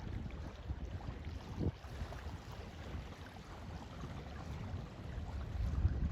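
Lake water lapping at the shore, with a low rumble of wind on the microphone that swells near the end.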